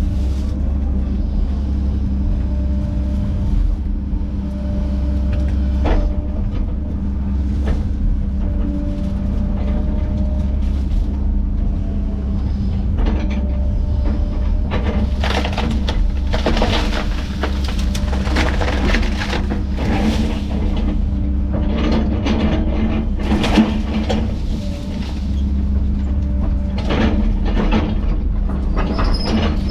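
A heavy land-clearing machine's diesel engine runs steadily under load. From about halfway through, wood cracks and splinters in quick, irregular snaps as trees and brush are broken up.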